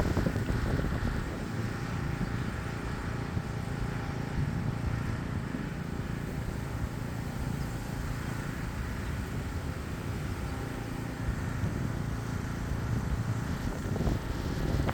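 Lawn mower engine running steadily as a low drone in the background.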